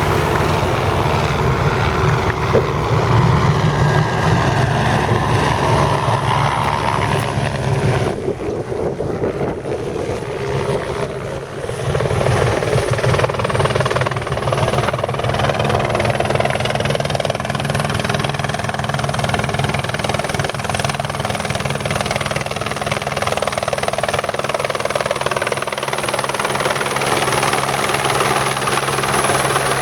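Helicopter engine and rotor running steadily. The sound dips and the high hiss thins for a few seconds about eight seconds in, then returns.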